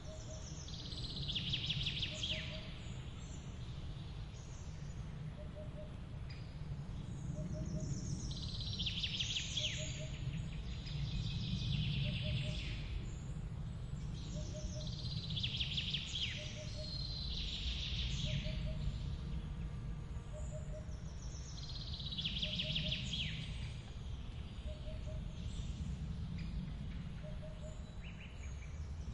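Forest ambience: birds sing short trilling phrases every few seconds over the steady low rush of a waterfall. A soft low double note repeats about every second and a half.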